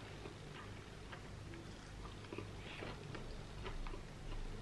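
Faint chewing of a mouthful of breaded fried chicken tender, with small irregular mouth clicks.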